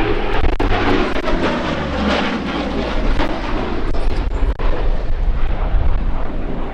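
Lockheed P-38 Lightning's twin Allison V-1710 V12 piston engines running loudly, a dense engine rumble.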